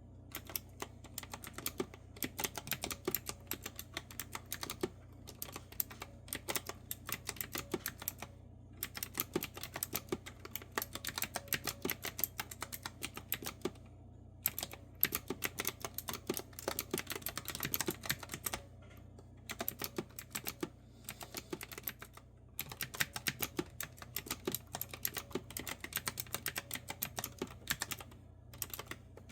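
Typing on a clicky retro-style keyboard with round keys: runs of quick, crisp keystrokes broken by short pauses of about a second.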